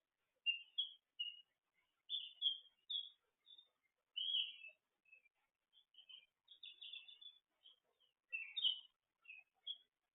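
Songbirds singing: a steady run of short chirps and quick warbled phrases, one after another with brief gaps.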